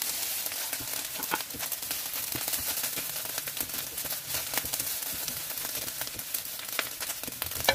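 Egg fried rice sizzling in a hot non-stick pan while a spatula scoops and turns it, a steady hiss with scattered light clicks and scrapes.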